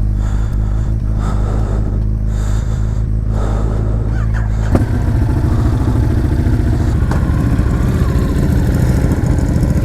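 Motorcycle engines idling. About halfway through there is a sharp click, and the running turns rougher and pulsing.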